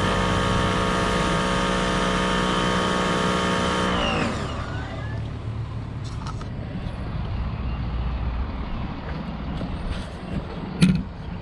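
Electric pressure washer's motor and pump running steadily with a whine, then winding down in pitch and stopping about four seconds in as the trigger is let go. Quieter background noise follows, with a sharp click near the end.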